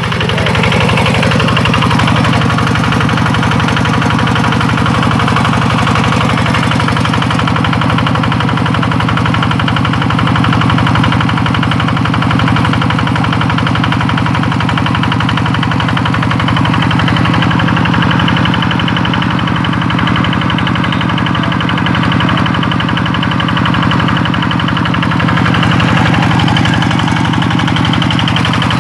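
Kubota 12 hp single-cylinder diesel engine running steadily at constant speed, driving a 5-inch suction pump, with a fast, even firing beat.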